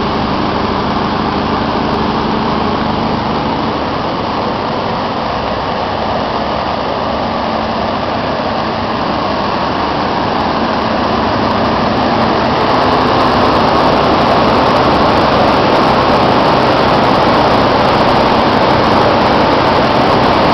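Biogas engine running steadily, getting a little louder about two-thirds of the way through.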